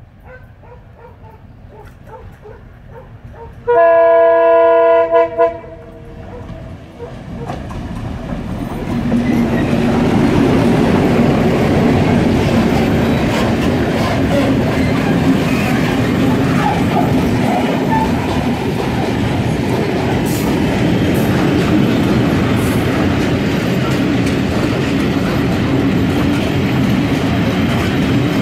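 A class 661 diesel locomotive sounds its horn, one chord of about two seconds with a short extra toot at its end, about four seconds in. The train then comes up and passes close by: the locomotive's engine goes past, followed by a string of tank wagons rolling over the rails.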